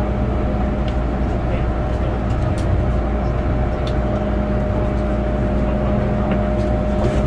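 MTR M-Train electric multiple unit running: a continuous rumble of wheels and running gear with a steady hum held on one pitch.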